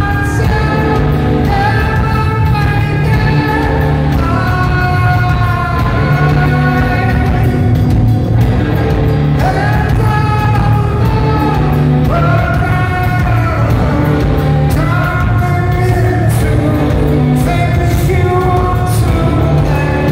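Rock band playing live: guitars, bass and drums with cymbal crashes, and a male lead singer holding long sung notes. Recorded from the crowd in a large hall.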